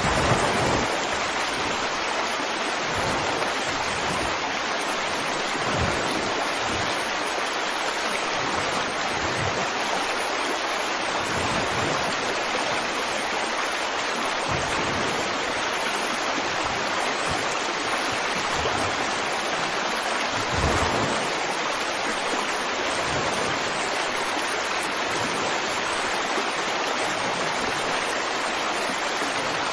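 Running water rushing steadily, like a stream, with brief louder swells just after the start and about 21 seconds in.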